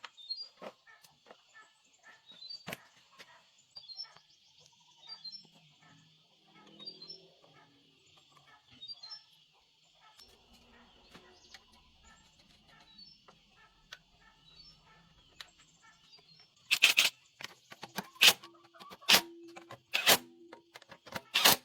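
Birds chirping over a steady high hiss, followed by several loud, sharp knocks in the last few seconds.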